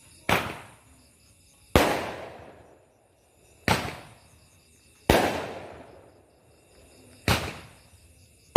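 Fireworks going off in a slow series of single loud bangs, five or six of them about one and a half to two seconds apart. Each bang is followed by a rolling echo that dies away over about a second.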